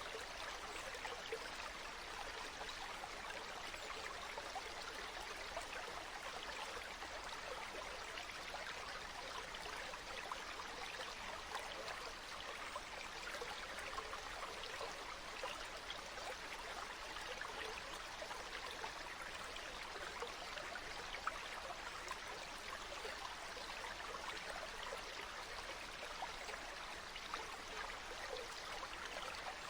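Stream water flowing steadily, an even, continuous rush with fine splashing and no pauses.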